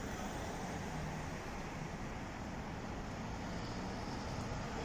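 Steady road traffic noise with a motor vehicle engine running nearby, mostly a low rumble, growing slightly louder near the end.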